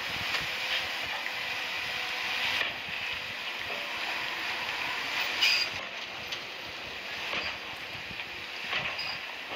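Earthmoving machinery working: a steady, hissing drone broken by a few short clanks.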